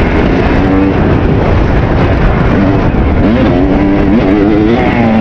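Kawasaki KX250 two-stroke dirt bike engine revving up and down while riding, its pitch climbing, holding and dropping several times, with a steady rush of wind noise underneath.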